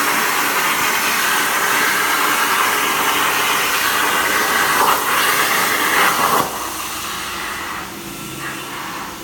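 CNC plasma cutter's torch hissing steadily while cutting metal. About six and a half seconds in, it drops to a quieter, steady noise.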